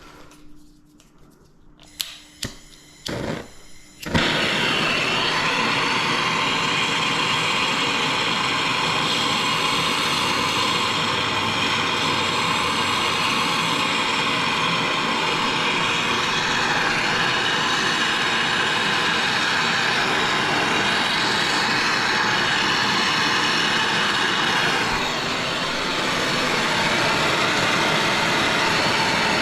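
A few short clicks and knocks, then a loud machine starts up about four seconds in and runs steadily, dipping slightly near the end.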